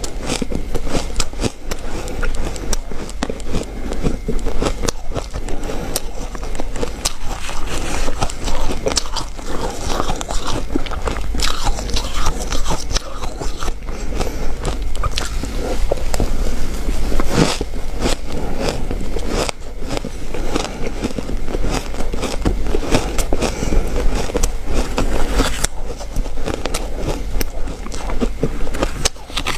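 A person biting and chewing ice: continuous crunching and cracking of ice between the teeth, bite after bite.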